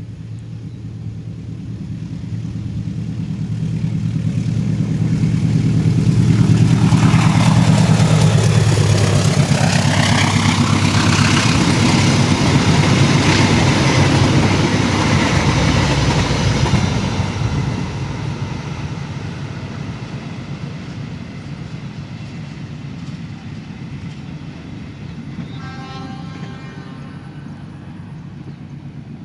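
A diesel-hauled passenger train passing close by: the locomotive's engine hum builds as it approaches, drops in pitch as it goes past about nine seconds in, and the carriages' wheels rumble over the rails until the sound fades from about 17 seconds. Near the end a brief multi-pitched tone sounds faintly.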